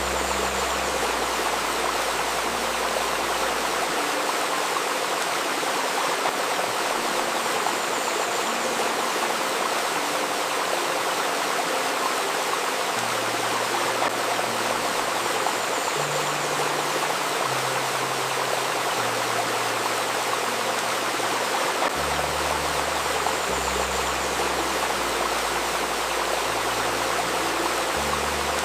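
Steady rushing and babbling of a river stream, with soft, low sustained tones underneath that step from note to note every second or two and fade out for a stretch in the middle.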